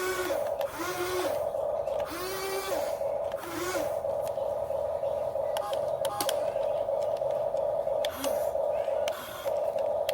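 Radio-controlled model excavator's motor whining steadily at one pitch, dropping out briefly now and then. In the first few seconds there are four short rising-and-falling whines, and later a few sharp clicks of the mechanism.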